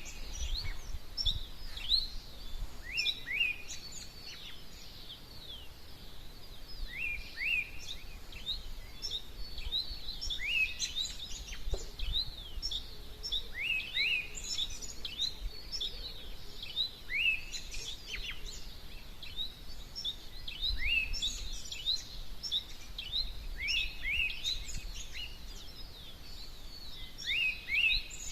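Several wild birds chirping and singing together in a dawn chorus, with many short high chirps and repeated quick falling whistles, over a low steady rumble.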